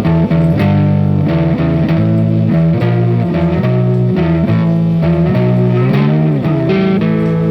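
Guitar music: sustained plucked notes changing every half-second or so, with a note bent up and back down about six seconds in.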